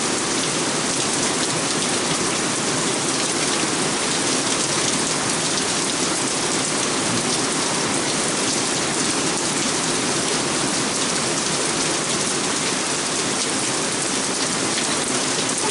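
Heavy rain falling steadily on a wooden deck, an even, unbroken downpour.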